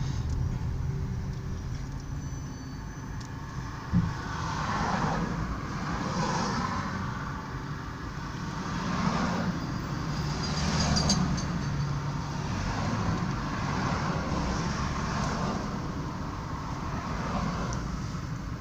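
Car driving: steady engine and road noise that swells and fades in waves, with a single short knock about four seconds in.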